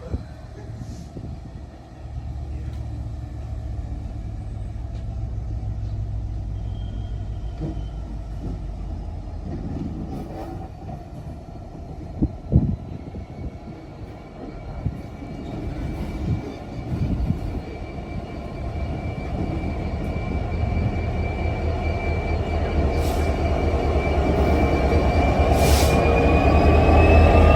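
A train approaching, its low rumble growing steadily louder, with a couple of sharp knocks midway and a high whine that rises slowly in pitch through the last several seconds.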